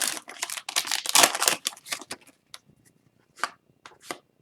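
Crinkling and rustling of a hockey card pack's wrapper and cards being handled for about the first second and a half, then a few short, separate flicks as cards are slid off the stack one by one.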